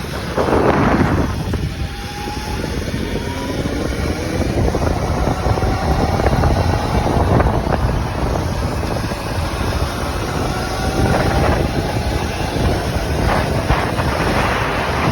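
Wind buffeting the microphone while riding an electric bike, with a brief loud gust about half a second in and several faint rising whines through it.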